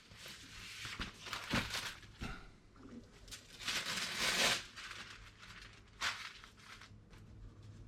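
Acetate animation cels and paper drawings being leafed through and shuffled on an animation disk: irregular rustling and crinkling of the sheets, with a longer, louder stretch of sliding about halfway through and a few sharp clicks.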